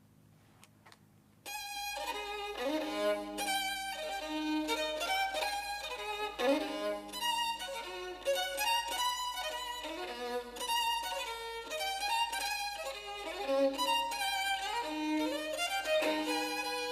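Solo violin, an old Italian instrument by Goffredo Cappa, playing a flowing melody with vibrato, starting about a second and a half in after a few faint clicks. Its tone is strong, brilliant and resonant.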